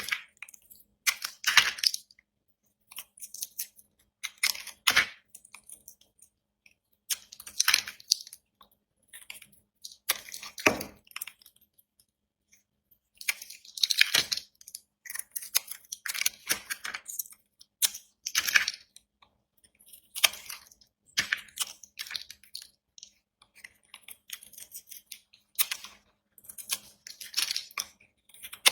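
A blade cutting through dry bar soap: a long series of short scraping cuts, one every one to three seconds, with silent pauses between them.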